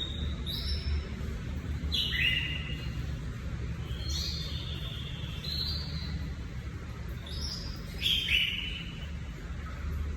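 Domestic canary singing: bright whistled phrases and trills, a new phrase every second or two, over a steady low hum.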